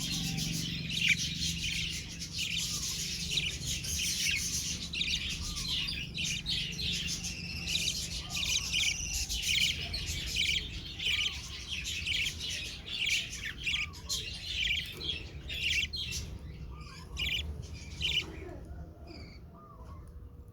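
Budgerigars chattering, a dense run of rapid high chirps and warbles that thins out near the end, over a steady low hum.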